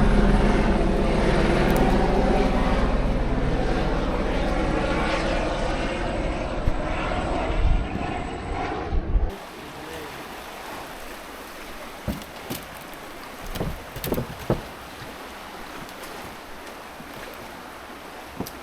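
Propeller aircraft engine overhead, its pitch slowly shifting and its level falling as it passes, then cut off abruptly about nine seconds in. After that, quieter outdoor background with a few scattered knocks.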